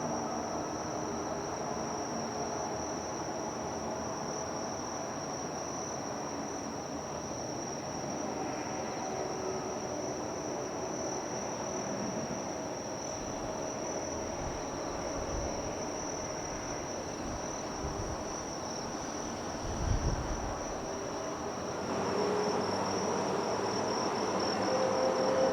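Insects trilling in one steady high note over a low rumble; in the last few seconds the running noise of a train starts to grow louder.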